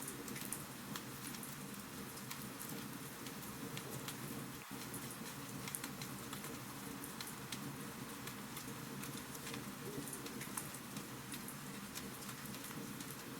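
Wood fire crackling in a fireplace: frequent small sharp pops and snaps over a steady low hiss, with a momentary dropout about five seconds in.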